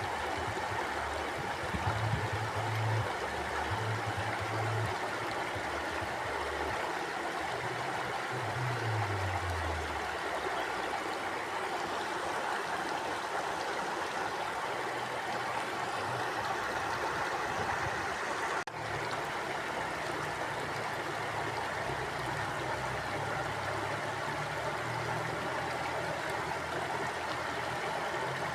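A stream running over rocks, a steady rushing and gurgling flow of water. A faint low rumble comes and goes underneath, and the sound dips for a moment about two-thirds of the way through.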